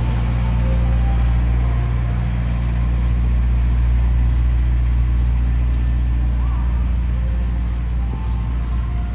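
Ice cream truck engine idling, a loud steady low hum that eases off slightly near the end.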